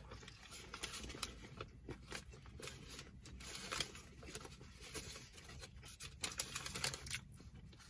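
Close-miked chewing of a bread-and-egg breakfast sandwich: quiet, irregular wet mouth clicks and smacks.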